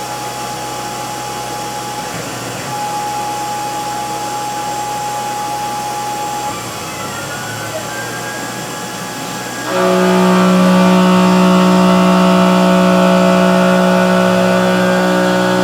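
Hobby CNC mill running a slow machining cycle on an aluminium part, its motor whine gliding up and down as the axes move. About ten seconds in, a louder steady hum with a strong low tone starts and holds.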